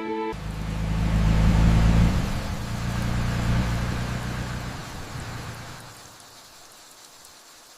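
A motor vehicle engine running with a low rumble, starting suddenly and then fading away over several seconds.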